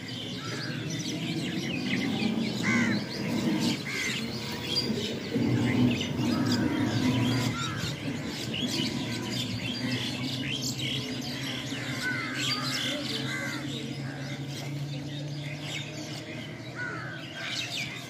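A flock of small birds chirping and calling continuously, many short overlapping chirps and trills, over a low steady hum.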